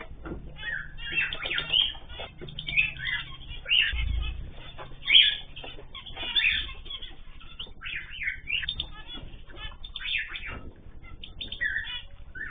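Many small cage birds chirping and calling at once, with short calls overlapping throughout. A brief low rumble comes about four seconds in.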